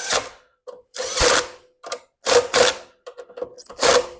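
Mower engine parts being handled and fitted by hand: four short bursts of mechanical clicking and rattling.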